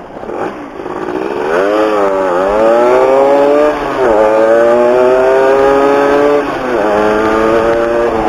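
Stock two-stroke motorcycle engine accelerating hard, its revs climbing through the gears. Three upshifts each bring a brief drop in pitch before the engine climbs again.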